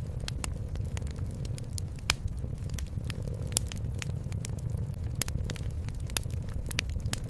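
Wood fire in a fireplace crackling, with irregular sharp pops, the loudest about two seconds in. Under it runs a steady low purring.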